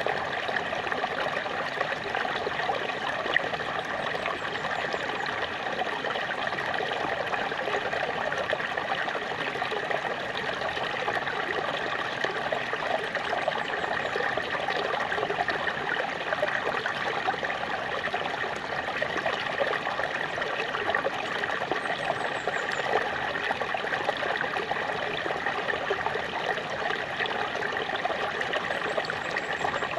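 A small waterfall splashing and rushing in a steady, even stream of water noise.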